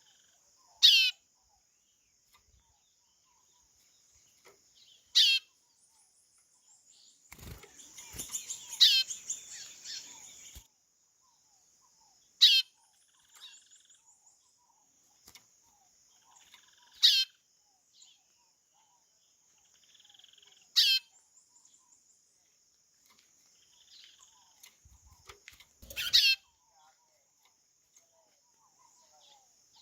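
White-bellied seedeater (chorão) giving its plaintive, down-slurred whistled call six times, about every four to five seconds. A faint steady high insect trill runs behind, and a busier jumble of sound comes about eight seconds in.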